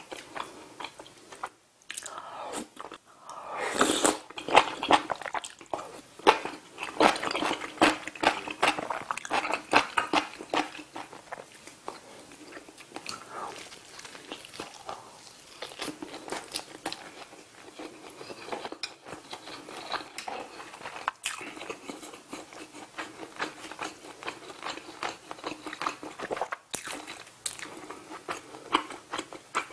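Close-miked eating sounds: wet chewing and crunchy bites of grilled saury and soft tofu stew. The biting and crunching is loudest and densest in the first third, then settles into lighter, steady chewing.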